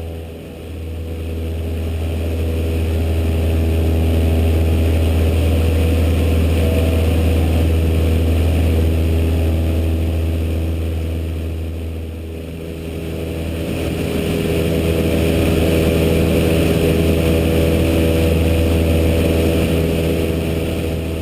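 Cessna 152's four-cylinder Lycoming piston engine and propeller running with a steady low drone, its loudness dipping and swelling back twice.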